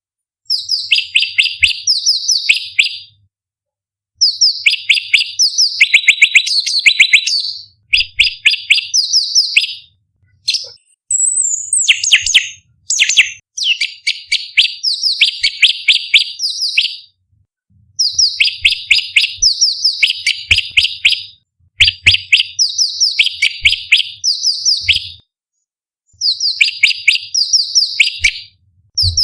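Orange-bellied leafbird (cucak cungkok) singing: rapid strings of sharp, high-pitched chirping notes in varied phrases of two to three seconds, separated by brief pauses.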